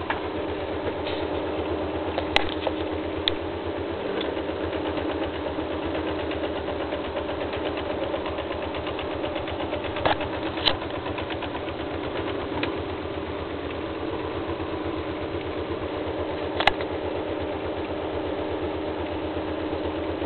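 Bipolar stepper motor from an old scanner running steadily on a driver fed 125 Hz per phase, giving an even pitched hum with a fast fine pulse. A few sharp clicks stand out over it, twice between two and three seconds in, twice around ten seconds in, and once near the end.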